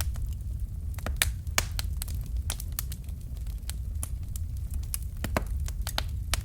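Wood fire crackling: irregular sharp snaps and pops over a low, steady rumble of the burning fire.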